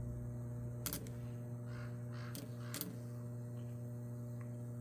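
Microwave oven transformer humming steadily while energized, a low mains buzz with overtones, with a few sharp clicks over it.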